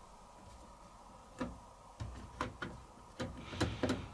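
Beko WTG620M1 washing machine's control being worked: about six sharp plastic clicks, irregularly spaced, starting about a second and a half in, with a faint steady hum underneath. They fit the programme selector dial being turned through its detents to the next programme.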